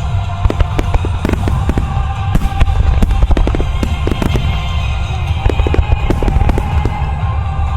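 Starmine fireworks firing in rapid succession: a dense run of bangs and crackling bursts over a continuous low rumble. Music plays throughout, as it does for a music starmine.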